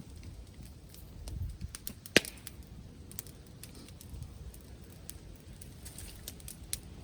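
Wood bonfire crackling with scattered small pops and one loud sharp crack about two seconds in, over a low rumble of wind on the microphone.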